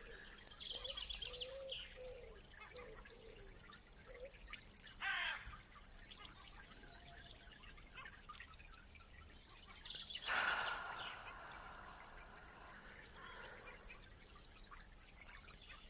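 Faint outdoor ambience with birds calling now and then, and two louder short sounds about five and ten seconds in.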